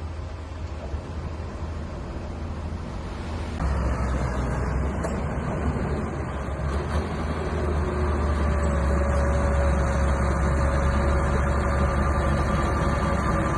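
Small bulldozer's engine running under steady load with a deep rumble, stepping up louder about three and a half seconds in, with a faint steady whine joining in past the middle.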